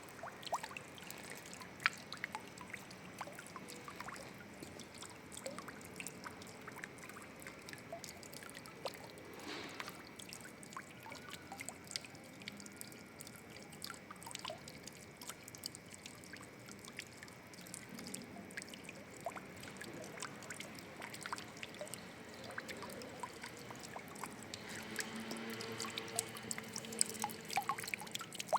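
Water trickling and dripping steadily, with many small irregular drops and splashes. A short low hum joins near the end.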